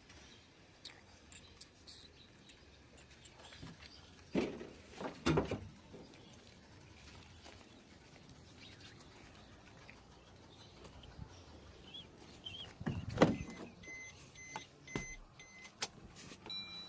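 Scattered knocks and clunks of work around a car, the loudest about two-thirds through, followed by a string of about four short high electronic beeps near the end.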